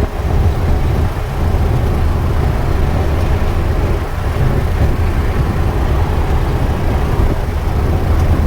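Peterbilt big rig driving, heard from inside the cab: a steady low rumble of diesel engine and road noise.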